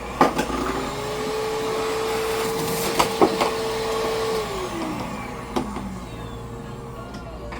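Pet blow dryer switched on with a click: its motor spins up to a steady hum, runs for about four seconds, then winds down, with a second click as it stops.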